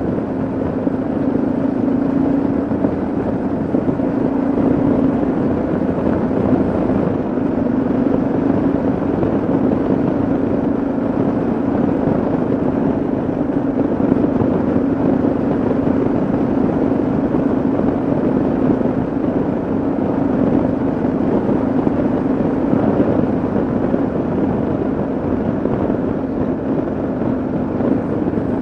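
Yamaha XT660Z Ténéré's single-cylinder engine running at a steady cruise, its note holding nearly level, under a constant rush of wind and road noise.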